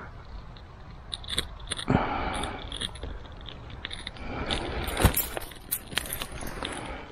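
Ferro rod struck with a scraper to throw sparks onto birch bark tinder: two longer scrapes, about two and five seconds in, among small clicks and ticks.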